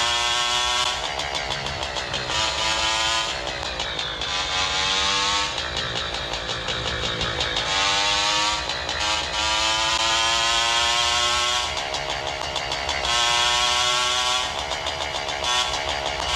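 Motorcycle engine pulling on the road, its pitch climbing steadily and then dropping back several times as it shifts up through the gears, over a steady hiss of wind and road noise.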